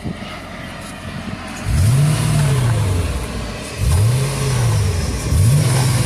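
Transplanted 5.5-litre AMG V8 in a 1999 Mercedes C43 idling, then blipped three times, about two seconds in, near the middle and near the end. Each rev rises and falls back.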